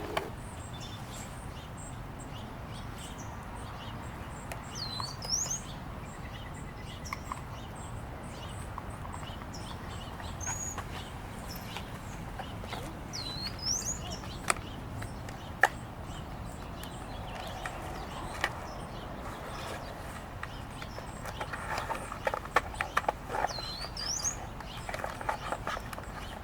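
A bird giving a high whistled call three times, each a quick dip then rising slur, spread several seconds apart over a steady outdoor background. Scattered sharp clicks and taps, a burst of them near the end.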